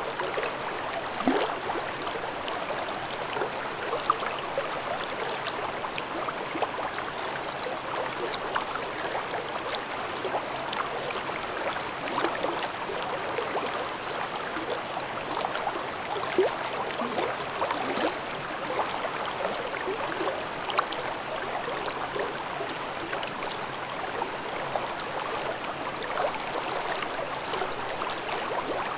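Shallow forest brook babbling steadily over rocks, with many small splashes and gurgles in the running water.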